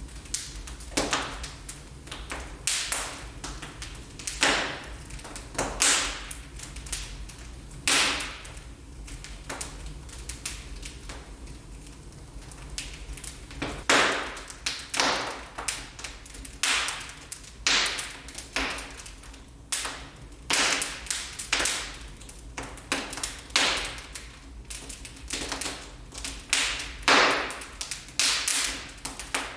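Wood fire burning in a fireplace, crackling with irregular sharp pops and snaps, several every couple of seconds, some louder than others.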